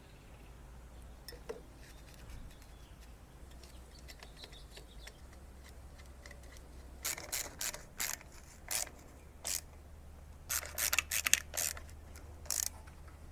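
Ratchet wrench clicking in short, irregular bursts, starting about halfway through, while the flywheel nut on a lawn mower engine is run down.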